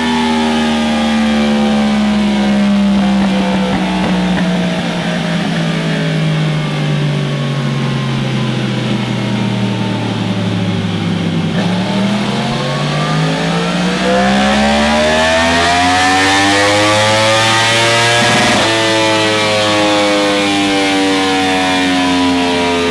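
Yamaha R1 inline-four with an aftermarket exhaust, held at high revs. Its pitch sinks slowly for about ten seconds, then climbs for about seven. Near the end the pitch drops suddenly and then keeps falling gently.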